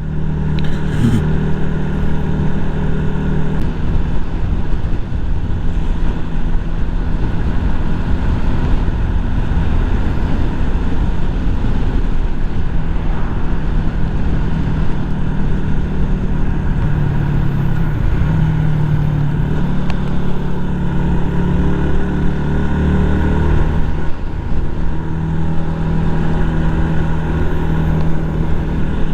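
Yamaha MT-125's 125 cc single-cylinder four-stroke engine running under way, heard from the rider's helmet over wind and road noise. The engine pitch shifts a few times as the speed changes.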